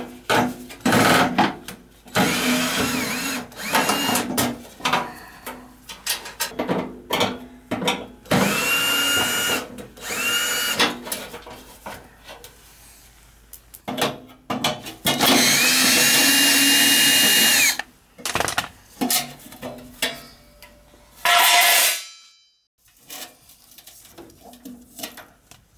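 Cordless drill/driver spinning fasteners out in several bursts. Each whine winds up, holds and winds down, and the longest run is near the middle. Metal panels and parts clatter between the bursts as a furnace blower assembly is taken apart.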